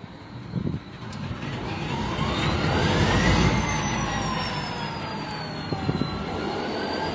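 Diesel engine of locomotive 1909 starting up hard: a few knocks, then the engine picks up speed with a rising whine for about two seconds and settles into a steady run, with a high whine that falls slowly.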